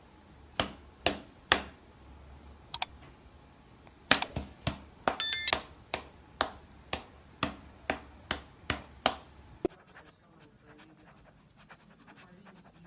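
A series of short, sharp scratching strokes, about two a second, then fainter light ticks for the last few seconds.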